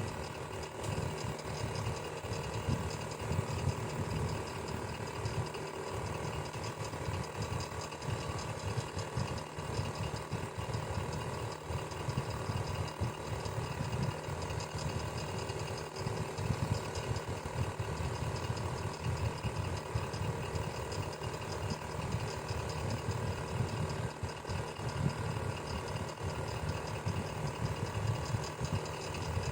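Electric fan running steadily: a constant motor hum and blade whoosh with a fast low flutter.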